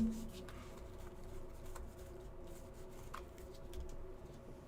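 Faint rustling and a few light taps of trading cards and packs being handled, over a steady low hum.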